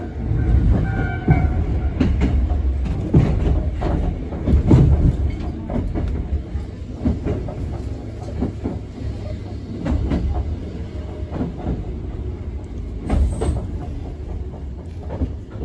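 Choshi Electric Railway train running, heard from inside the car: a steady low rumble of wheels and motors, with irregular clicks and knocks as the wheels pass over rail joints.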